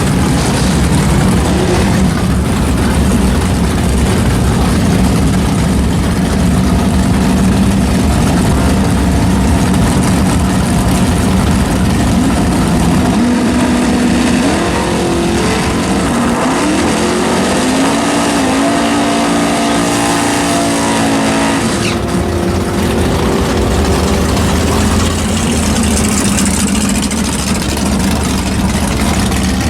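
Car engine running steadily, then from about halfway through rising in pitch in steps, dropping and rising again like an upshift under acceleration, before settling back to a steady drone.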